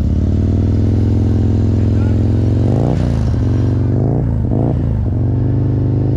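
Motorcycle engine running at steadily raised revs, as in slow-speed riding with the clutch slipped in the friction zone and the rear brake dragged. The engine note dips and recovers about three seconds in, then twice more shortly after.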